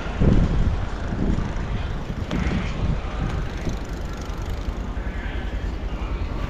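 Wind buffeting the microphone in a blizzard, a steady low rumble. Over it, in the first half, come four soft scraping or crunching sounds about a second apart.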